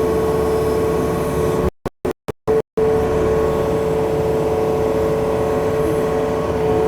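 Yanmar excavator's diesel engine running steadily with a constant hum, the sound cutting out in a few brief gaps about two seconds in.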